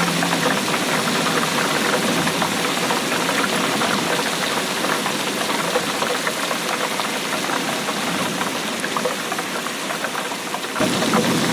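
Steady rainfall, a dense patter of many small drops. Just before the end the sound shifts abruptly to a fuller, slightly louder rain with more low rumble.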